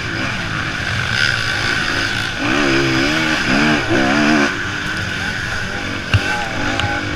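Motocross bikes racing, engines revving up and down repeatedly as the riders work the throttle, with one sharp knock about six seconds in.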